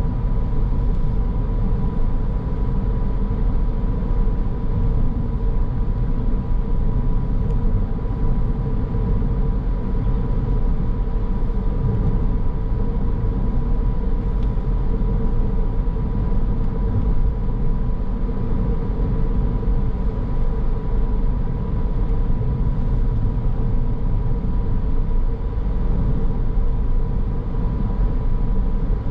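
Steady driving noise of a car on the road: a constant low rumble of tyres and engine with a faint, unchanging whine.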